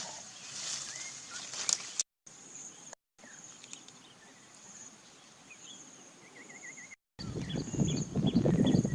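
Outdoor ambience of insects buzzing in pulses and a bird giving a short trill, broken by several abrupt edit cuts, then about two seconds of loud rustling and scuffling near the end.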